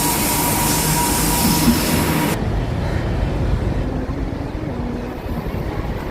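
A train running past on the track, a loud rushing rumble. The high hiss cuts off abruptly a little over two seconds in, leaving a lower rumble.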